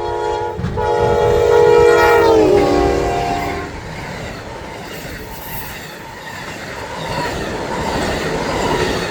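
Amtrak passenger train's locomotive horn sounding a chord of several notes for about three and a half seconds, its pitch dropping as the locomotive passes at speed, then the rush and clatter of the passenger cars going by.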